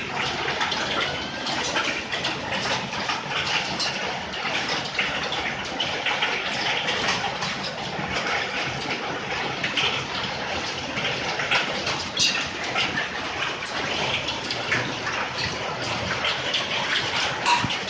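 Hail falling with heavy rain: a steady, dense wash of noise scattered with many small sharp ticks of hailstones striking.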